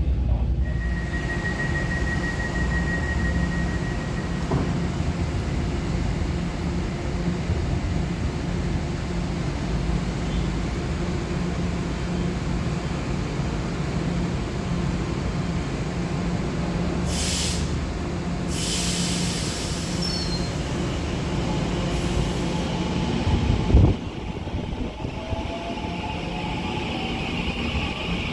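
Interior of an EMU900-series electric multiple unit (EMU923) rolling into a station, a steady low rumble of running gear. Two short hisses of air come about two-thirds of the way through. A sharp knock follows, after which the sound is quieter.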